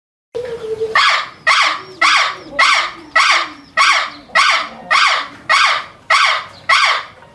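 An animal's harsh call repeated about eleven times, evenly spaced at roughly two a second, loud.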